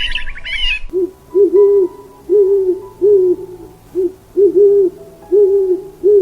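Bird chirping for about the first second, then a bird's low hooting calls: about ten notes, several in quick pairs.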